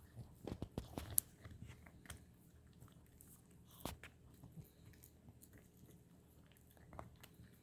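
A Pomeranian chewing and crunching on something hard: a cluster of crunches in the first second or so, then single crunches near the middle and near the end.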